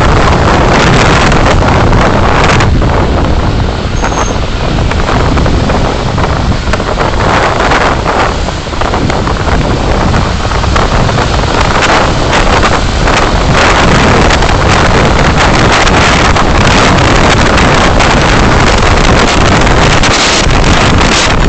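Loud, steady rush of wind buffeting the dashcam microphone, mixed with the road and engine noise of the moving vehicle; it eases slightly for a few seconds near the start.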